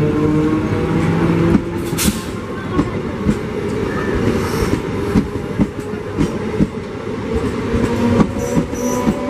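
Electric multiple unit suburban local train running past at close range: continuous wheel-on-rail rumble with repeated sharp clacks as the wheels cross rail joints, and a steady hum underneath.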